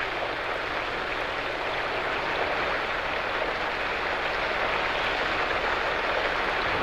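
Rain falling steadily, an even hiss without pauses.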